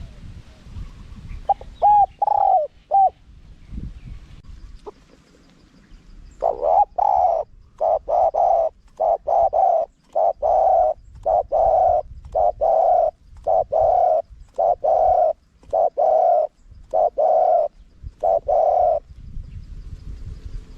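Spotted dove cooing: a short phrase of a few notes about two seconds in, then after a pause a long run of evenly spaced coos, the kind of call used to draw wild doves in.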